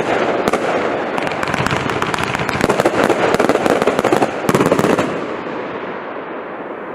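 Prestigious 'Lightning Storm' firework going off: a dense, rapid crackling and popping that thins out and fades over the last couple of seconds.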